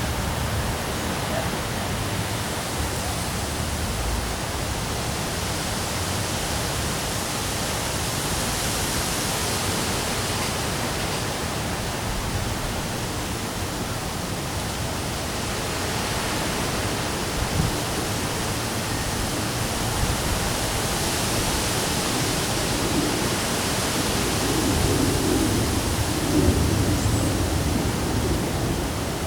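Heavy rain and strong wind in a thunderstorm: a steady hiss that swells and eases, with a low rumble rising near the end.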